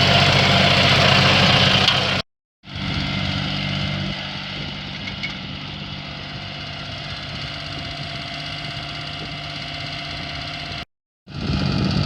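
An engine running steadily at an even speed, cut twice by brief drops to total silence, about two seconds in and near the end.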